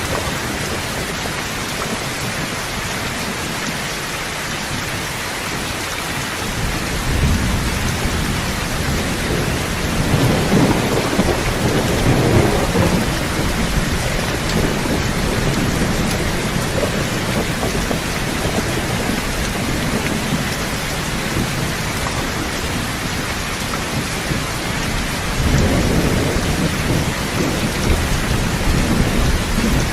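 Steady heavy rain hissing, with thunder rumbling low twice: a long roll starting about a quarter of the way in, and another near the end.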